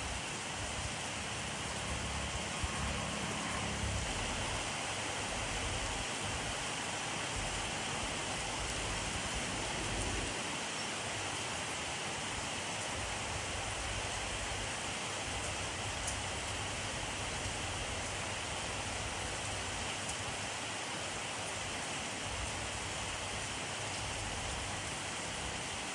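Steady rainfall, a dense even hiss of drops with a faint low rumble now and then.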